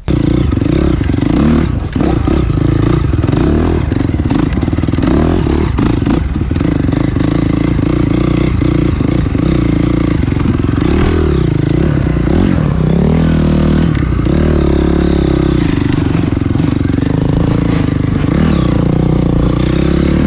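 Dirt bike engine running loud while being ridden, its pitch falling and rising as the throttle is rolled off and opened again.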